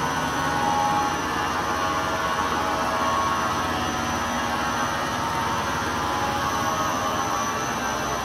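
Rug-cleaning machinery running steadily: an even mechanical drone with a hiss and a cluster of steady tones.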